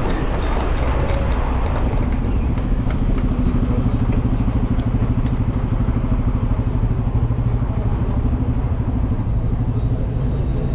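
Road traffic noise: a continuous low rumble, with a motor vehicle's engine humming steadily close by for several seconds in the middle.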